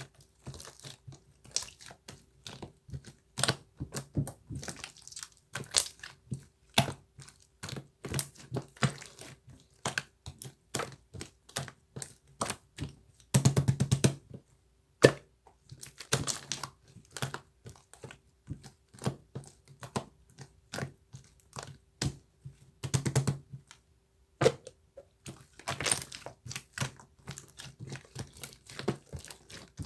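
Typing on a computer keyboard: irregular keystrokes and clicks, with quick runs of keys about 13 and 23 seconds in.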